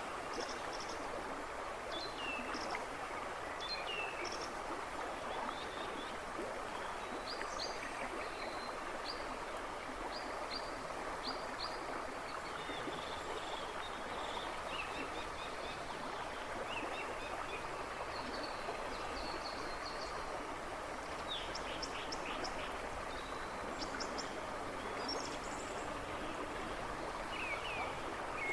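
A river babbling and rushing steadily, with woodland birds chirping and trilling in short bursts over it throughout.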